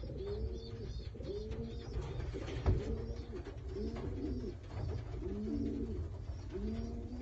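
Racing pigeons cooing in their loft, one low arched coo after another, about once a second. A single sharp knock sounds a little under three seconds in.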